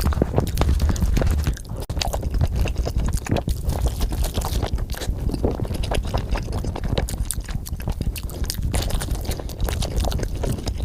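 Close-miked chewing and biting of food, a dense run of small irregular clicks and crackles.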